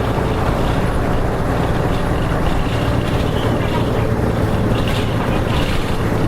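Diesel engine of a Hino Rainbow RM (KK-RM252GSN) route bus running steadily as the bus drives, a constant low hum with road noise over it.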